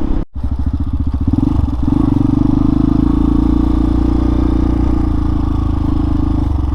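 Hawk 250 dual-sport's single-cylinder engine running at a steady cruising speed as the bike is ridden, with a very brief dropout a fraction of a second in.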